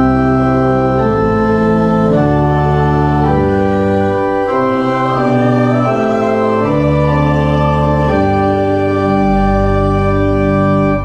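Church organ playing a slow passage of sustained chords, each held about a second, with a deep bass note coming in near the end before the sound cuts off.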